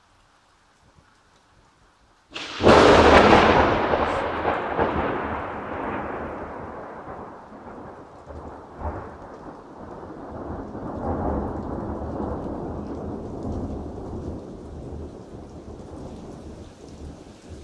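A close lightning strike: a sudden, very loud crack of thunder about two seconds in, then a long rumble that slowly fades, swelling again briefly partway through.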